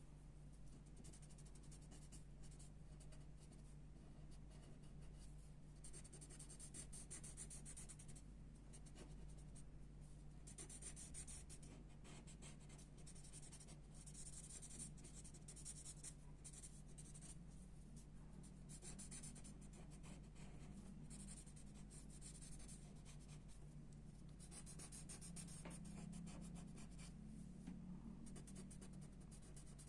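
Pencil sketching on paper, faint: stretches of quick scratchy strokes that start and stop every few seconds, over a low steady hum.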